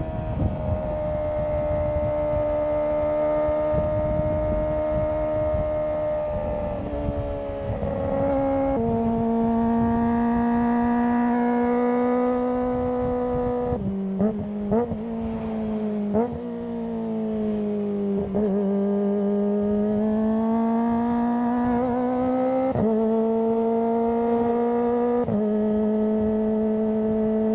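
Kawasaki ZX25R's 250 cc inline-four exhaust under way, running at a high steady pitch that climbs slowly between gear changes, each change a sudden step in pitch. There are a few quick throttle blips a little past the middle, and a low rushing noise under the engine for the first several seconds.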